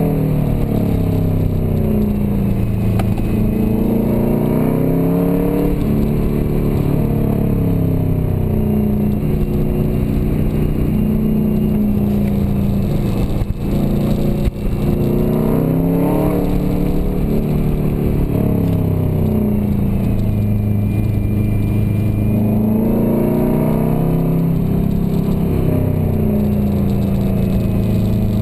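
COBB-tuned turbocharged flat-four engine of a Subaru Forester XT, heard from inside the cabin, revving up and down again and again as the car is driven hard through the gears. About halfway through the revs drop briefly, with a knock at a gear change.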